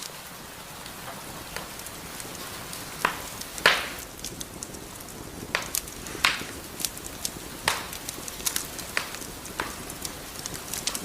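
Wood fire burning in a fireplace, irregular crackles and sharp pops over a soft steady hiss. The loudest pop comes about three and a half seconds in.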